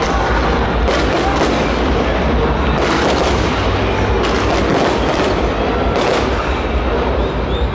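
Fireworks display: a continuous low rumble of booms with sharp bangs and cracks going off one after another, about every half second to second.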